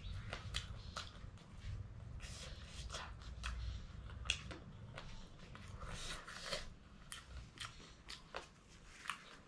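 A person chewing food with the mouth close to the microphone: irregular small wet clicks and lip smacks while eating noodles and momo.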